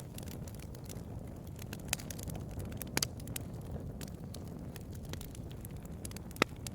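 Bonfire crackling: a steady low rumble of burning with scattered sharp pops, the loudest one near the end.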